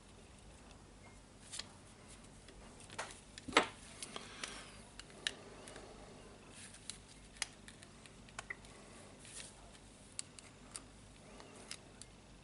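Scattered small clicks and taps of hand tools and small parts being handled while a jigsaw motor's brush holder is worked out, with the loudest knock about three and a half seconds in.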